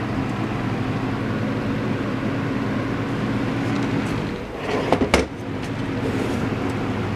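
Lasko 3733 box fan running steadily: an even motor hum under the rush of air from the blades. A brief cluster of sharp knocks about five seconds in, as of the fan being handled.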